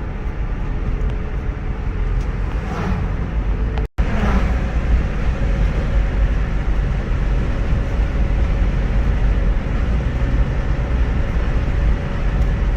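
Steady low rumble of a car's engine and tyres on the road, heard from inside the moving car. The sound cuts out for an instant about four seconds in.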